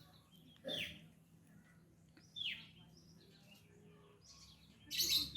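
Gelatik batu (cinereous tit) singing: three short whistled notes about a second and a half apart, each sliding down in pitch. A brief, louder hissy burst comes near the end.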